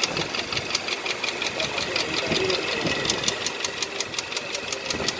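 Hyundai Accent 1.6 engine running steadily with a rapid, even knock, about seven sharp ticks a second.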